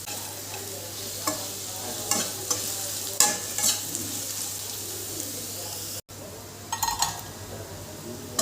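Food sizzling in a hot pan while a spatula stirs and scrapes through it in several strokes. After a sudden break about six seconds in, a few clinks ring out.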